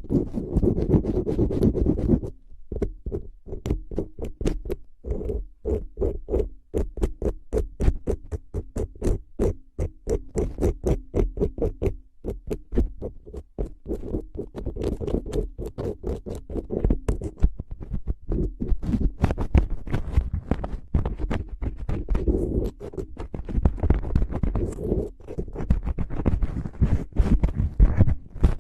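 Rapid close-miked tapping and scratching, several taps a second, with a short pause about two seconds in.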